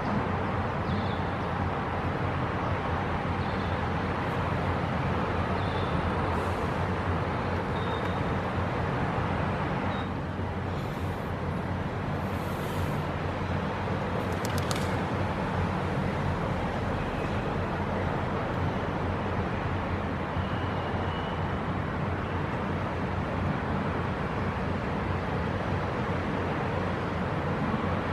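Steady background traffic noise, a continuous even rumble and hiss, with a few faint short high chirps scattered through it.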